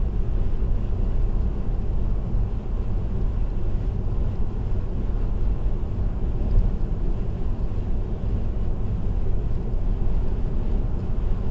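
A car cruising at highway speed, a steady low rumble of tyre and road noise with the engine underneath.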